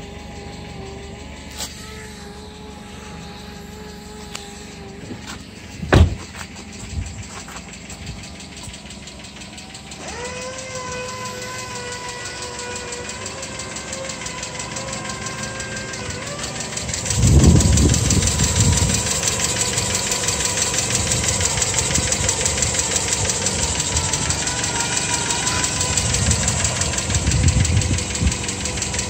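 The 2007 Kia Pride's petrol engine idling, heard with the hood open. From about halfway through it is louder and closer, with a fast ticking clatter from the engine bay. A single sharp thump about six seconds in is the loudest sound.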